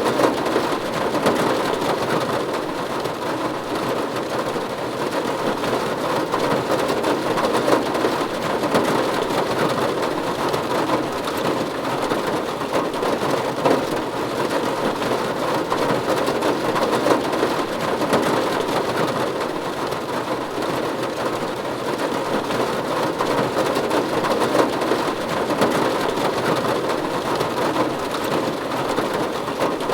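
Steady rain falling on a roof, an even, unbroken hiss of drops with no pauses or swells.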